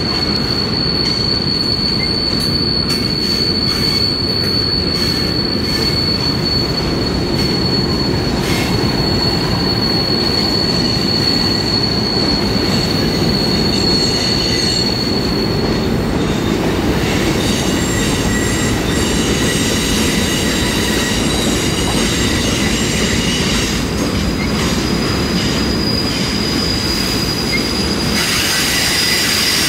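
Freight cars rolling past on a curve: a steady rumble of steel wheels on rail, with high-pitched wheel squeal over it. One steady squeal holds through the first half and stops about halfway through. Several fainter squealing tones follow, and a louder high squeal comes back near the end.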